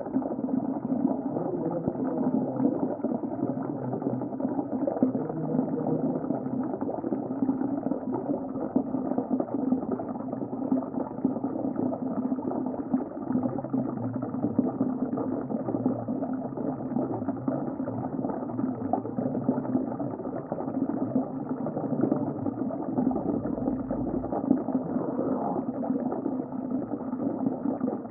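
Muffled underwater ambience: a steady, low bubbling rumble with nothing above a dull mid range.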